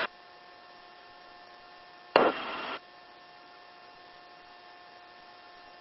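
Helicopter intercom audio with the channel quiet between transmissions: a faint steady electrical hum. About two seconds in, a click opens a half-second burst of static hiss, then the channel drops back to the hum.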